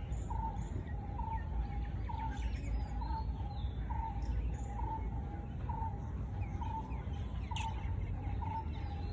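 A bird repeating one short call note evenly, about twice a second, with a few faint higher chirps from other birds over a low rumble.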